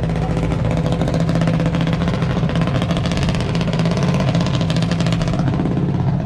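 Honda Civic engine held at a steady high rev, as on the launch line before a drag run.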